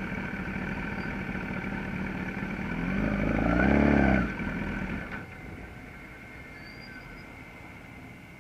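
Gen 4 Kawasaki ZX-10R inline-four idling, then revved once about three seconds in, its pitch rising and dropping back a second later. The engine sound falls away suddenly about five seconds in, leaving a quieter steady background.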